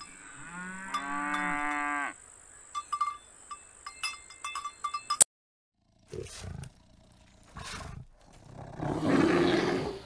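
Cow mooing once, a call of about two seconds, with the bell on its collar clanking irregularly. After a sudden cut and a moment of silence, brown bears grunting and growling, the loudest a rough growl near the end.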